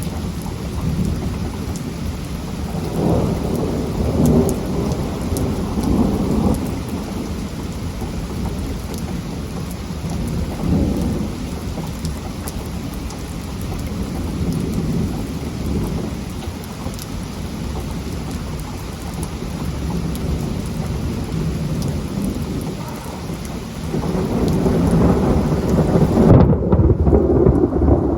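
Heavy rain falling steadily through a thunderstorm, with thunder rumbling low several times and a longer, louder roll of thunder building near the end.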